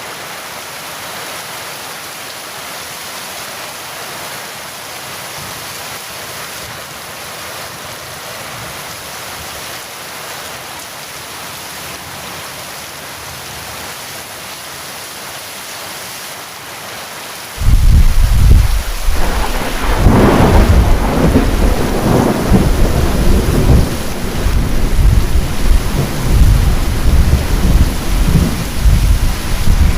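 Steady heavy rain. About seventeen seconds in, thunder breaks in suddenly and loud, with a sharper crack a couple of seconds later, then keeps rumbling over the rain.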